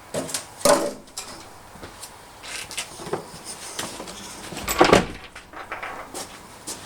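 Irregular knocks, bumps and scrapes of things being handled and shifted inside a truck bed's fridge drawer box, the loudest about a second in and again near five seconds in.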